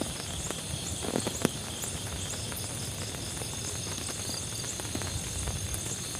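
Steady rain, with insects chirping in a high repeating pulse above it and a couple of short knocks about a second in.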